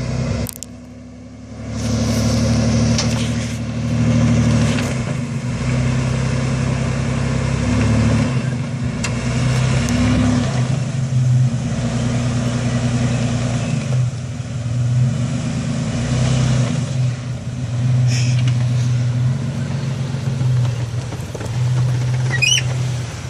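Ford Explorer's engine running at low revs, its level rising and falling with the throttle as the truck crawls off-road, with a brief dip about a second in.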